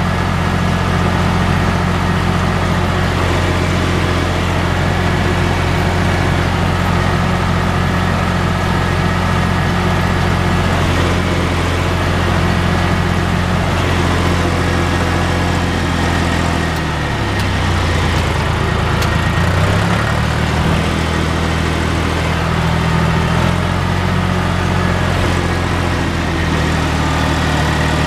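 John Deere 1030's three-cylinder diesel engine running steadily while driving a hay tedder. About two-thirds of the way through, the engine note drops and then climbs back up.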